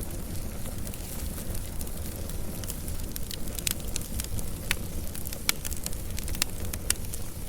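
Wood fire burning with a steady low rumble and frequent sharp crackles and pops, thickest in the middle of the stretch.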